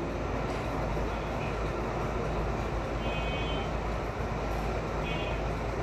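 Onion, ginger-garlic and ground-spice paste sizzling as it fries in oil and a little water in a steel pot. A metal spatula stirs through it, over a steady low rumble.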